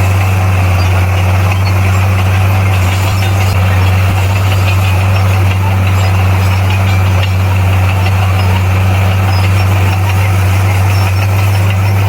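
Heavy-equipment diesel engine running steadily at one constant pitch, a deep even drone with no revving or knocks.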